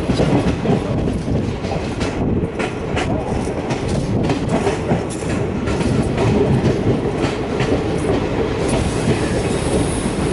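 Passenger train running into a station, heard from on board: a steady rumble of the coaches, with a run of sharp wheel clicks over the rail joints about two to five seconds in.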